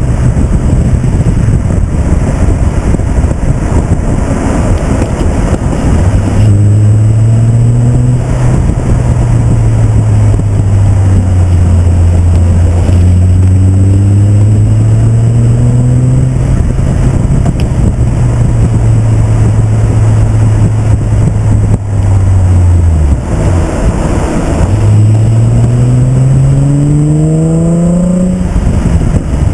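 Nissan 350Z's V6 pulling hard on a twisty canyon descent, heard from a camera mounted outside the car over loud wind and tyre roar. The engine note holds and climbs, drops sharply about two-thirds of the way through, then rises steadily as the car accelerates through the revs, cutting off just before the end as the driver lifts or shifts.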